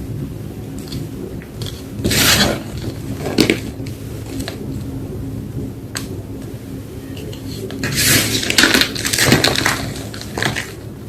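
Reformed gym chalk crunching in bursts: one crunch about two seconds in, another at about three and a half seconds, then a longer run of crunches from about eight to ten seconds, over a steady low hum.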